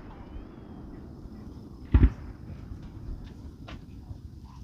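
Aerial firework bursting with one sharp bang about two seconds in, followed by a few faint pops.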